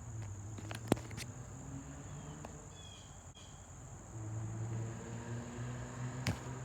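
A steady, high-pitched insect drone, with a low hum underneath that swells in the second half. A sharp click comes about a second in and another near the end.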